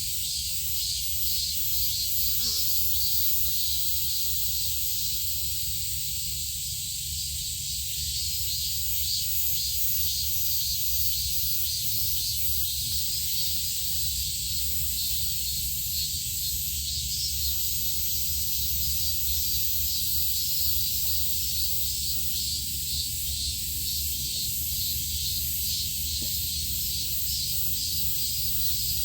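Steady high-pitched chirring of insects with a fast, even pulse, over a low steady rumble.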